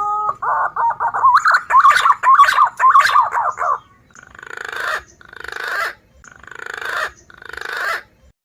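Green pigeon (punai) calls played as a bird lure: a whistle gliding upward, a quick run of warbling whistled notes, then four rasping notes about a second apart.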